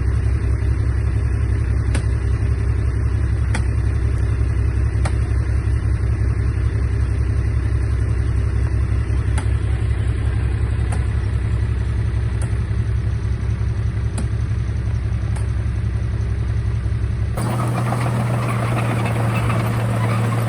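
Bulldozer diesel engine running steadily, a deep drone with a faint tick about every second and a half. About three seconds before the end the sound changes abruptly to a steadier, higher hum with more hiss.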